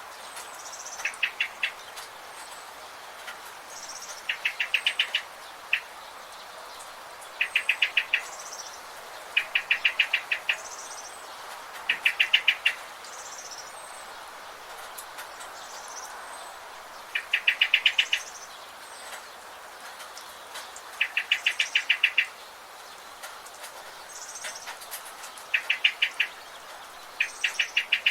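Forest birds calling: one bird repeats a short, fast run of rapid notes every two to four seconds, while fainter, higher chirps from other birds come in between, over a steady background hiss.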